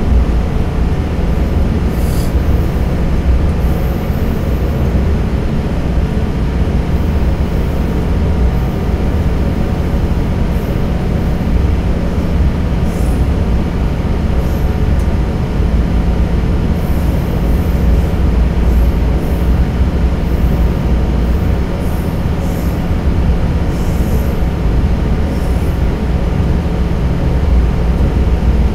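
Diesel railcar running steadily through a long railway tunnel, heard from inside the car: a constant deep rumble of engine and wheels with a steady low hum, and faint high clicks now and then.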